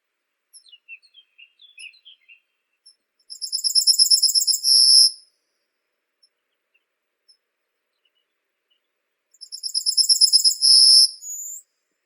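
A songbird singing: a few soft high chirps, then two loud phrases about six seconds apart, each a fast trill of repeated high notes ending in a longer buzzy note.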